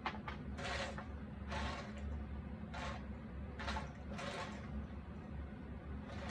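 Hands sliding and rubbing cardboard jigsaw puzzle pieces: a run of short scraping swishes about a second apart, over a steady low hum.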